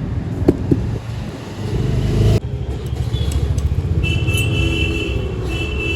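Hero HF Deluxe's air-cooled single-cylinder engine idling with a fast, even pulsing clatter, which the mechanic puts down to loose tappets (excess valve clearance). The sound breaks off abruptly about two seconds in and resumes, and a steady high whine joins it over the last two seconds.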